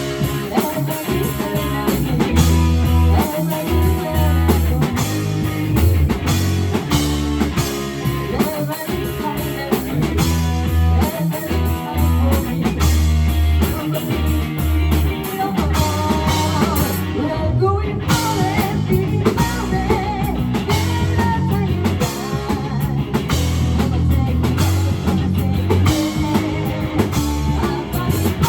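Live rock band playing: electric guitar, bass and drum kit, with singing.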